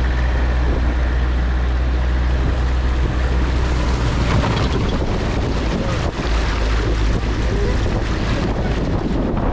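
Tata Sumo's diesel engine running with a low steady drone while the vehicle crosses a river, under rushing water and heavy wind noise on the microphone. About four seconds in, the steady engine note breaks up and becomes uneven.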